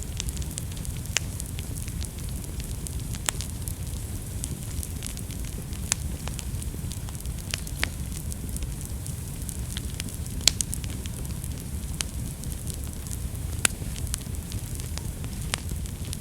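Wood fire burning in a fireplace: a steady low rumble of flames with irregular crackles and sharp pops, two louder pops about ten and thirteen seconds in.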